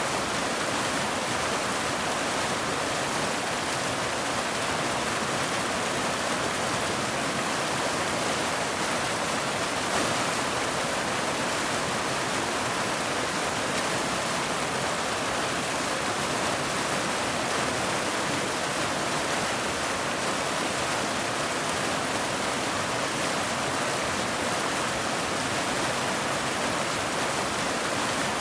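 Steady, dense rain hiss, an even wash of sound with no single drops standing out.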